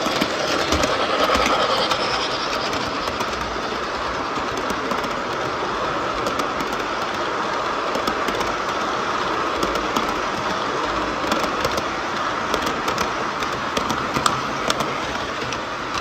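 MTH model of the C&O 2716 Berkshire steam locomotive running on track: a steady rumble of motor and wheels with scattered sharp clicks over the rail joints.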